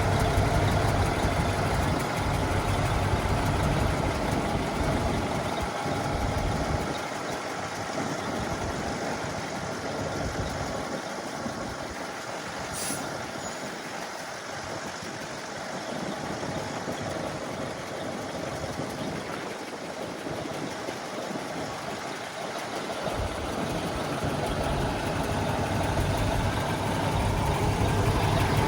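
Truck engine running with a steady low rumble that drops away for a long stretch in the middle and builds back up toward the end. A single short click about thirteen seconds in.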